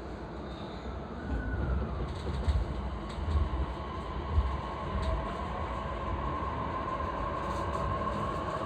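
Interior running sound of a JR E233-3000 series electric train pulling away and gathering speed. The whine of the inverter and traction motors climbs slowly in pitch over a low rumble of wheels on rail, with a few heavier jolts in the first half.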